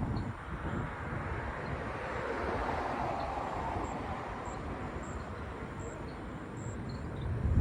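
Vehicle noise over a low rumble: a rushing sound swells to a peak about three seconds in and then fades.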